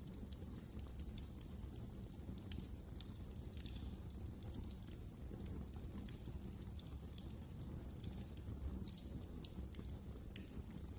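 Wood fire in a fireplace crackling, with irregular sharp pops and snaps, a few louder, over a low steady rumble of the burning logs.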